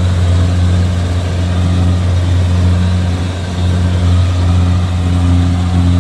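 Kubota DC-70G Plus combine harvester's diesel engine running at a steady speed, a deep continuous hum with no revving.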